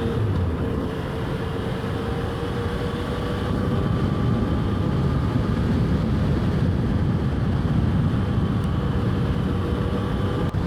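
Yamaha FJ-09's 847 cc inline three-cylinder engine running under way, its pitch easing slowly down and then holding steady, over a heavy rushing noise.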